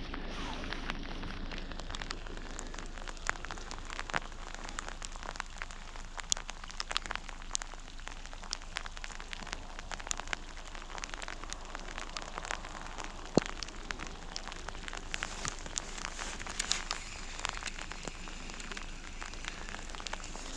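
Steady rain falling on the lake, an even hiss with many scattered sharp ticks of single drops landing.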